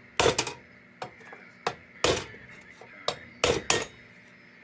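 Hammer tapping on the tin-plated sheet metal of a 1926 Dietz Blizzard lantern to free a stuck part: a handful of sharp metallic taps about a second apart, two of them close together near the end.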